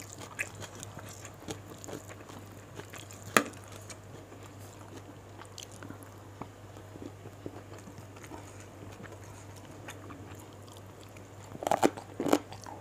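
Close-miked chewing and mouth sounds of a person eating fried gourami and rice by hand, with scattered small clicks and one sharp click about three and a half seconds in. Near the end come a run of louder crunches and clicks, over a faint steady hum.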